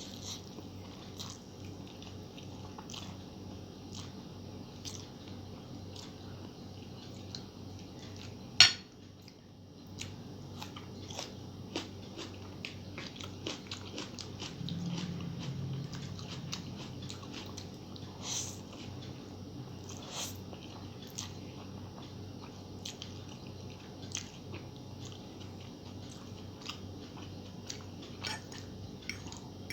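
Close-up eating sounds: a person chewing and biting mouthfuls of noodles, with many small wet clicks and crunches. One much louder sharp click comes about nine seconds in.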